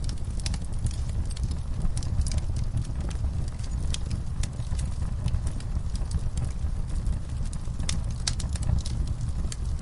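Wood fire burning in a fireplace: a steady low rumble with frequent irregular crackles and sharp pops.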